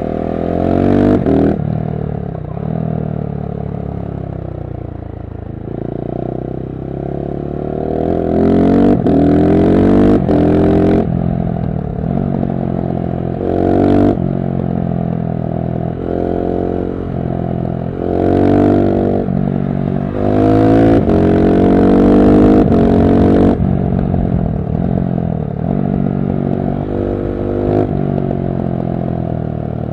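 KTM SMC-R 690's single-cylinder engine through a LeoVince One Evo slip-on exhaust with the dB-killer fitted, accelerating hard: the pitch climbs again and again, broken by sharp gear changes and drops in revs between pulls.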